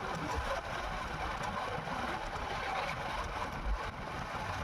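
Steady rumbling vehicle noise with wind on the microphone, even throughout, with no distinct engine note.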